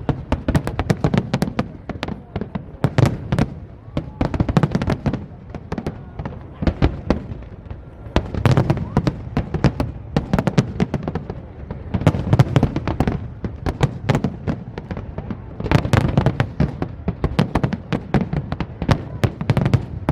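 Aerial fireworks display: a dense, continuous run of sharp cracks and pops from many shells bursting, with deeper booms mixed in every couple of seconds.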